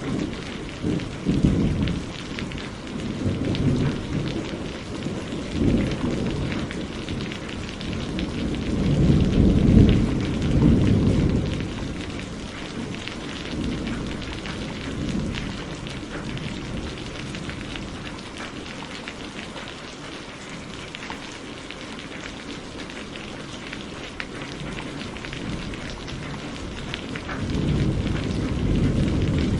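Steady heavy rain falling, with thunder rumbling low in the background; the rumbling swells to its loudest about a third of the way in, fades to the steady rain alone, and builds again near the end.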